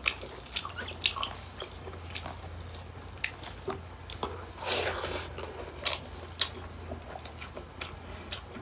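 Close-miked eating sounds: chewing and wet mouth clicks, scattered and irregular, with a longer, louder smacking burst about five seconds in, as pork and rice are eaten by hand. A faint low hum runs underneath.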